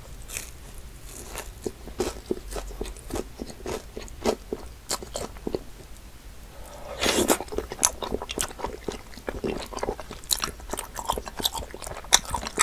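Close-up chewing and crunching of a breaded fried cutlet, many short crisp crunches, with a louder stretch of crunching about seven seconds in.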